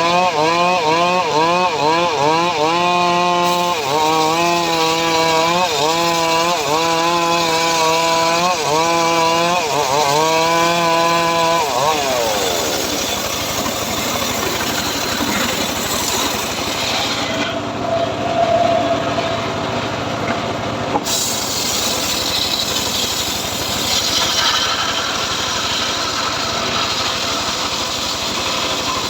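Homemade engine-driven srekel saw cutting teak. For about the first twelve seconds the engine note dips and recovers about once a second as the blade loads up; after that it gives way to a rougher, noisier sawing sound.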